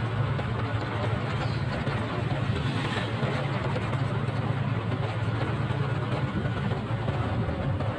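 Motorcycle engine running steadily on the move, with a steady rushing noise over it.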